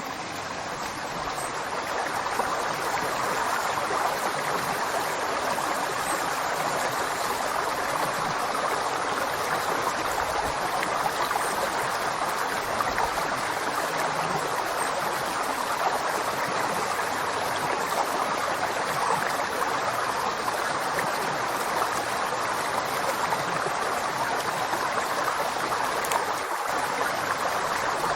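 River water flowing, a steady, even rush with no breaks, a little quieter for the first second or two.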